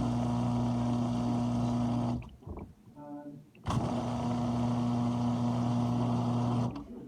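GE dishwasher's pump motor humming in pulses: it runs about three seconds, cuts off suddenly for about a second and a half, then starts again and runs about three seconds more.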